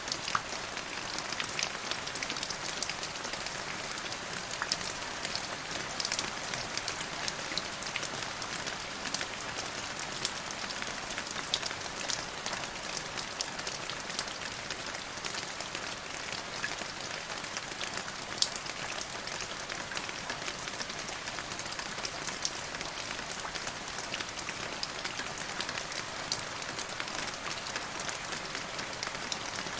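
Steady rain falling on a hard surface, a dense hiss of drops with many small distinct drip ticks and an occasional louder drop.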